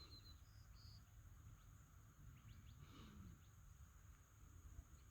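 Near silence: faint early-morning outdoor ambience with a few short, high bird chirps in the first second and a steady high hiss underneath.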